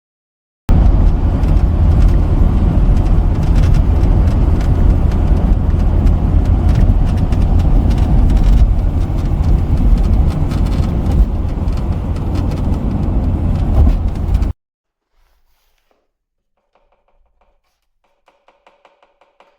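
Wind and road noise at driving speed in a Mercedes Vito W638 van: a loud, steady rush over a heavy low rumble that cuts off suddenly about 14 seconds in. Faint ticking follows near the end.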